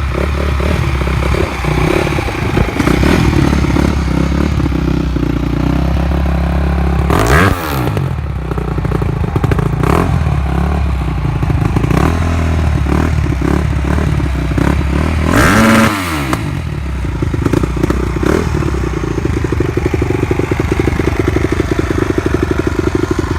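2007 Honda CRF250R's single-cylinder four-stroke engine running just after a cold kick-start, settling into a steady idle. It is blipped up and back down twice, once about a third of the way in and again about two-thirds of the way in.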